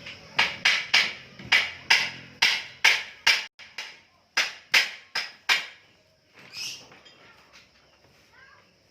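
Hammer strikes on the motorcycle engine during disassembly: about fifteen sharp blows in quick, uneven succession over five seconds or so, then a single weaker knock.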